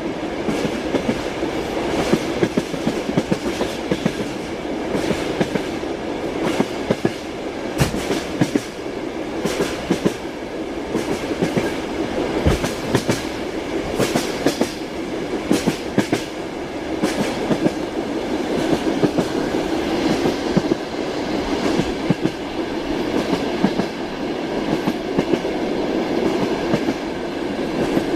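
Train wheels clacking over rail joints, with a steady rolling rumble underneath and frequent sharp clicks and knocks.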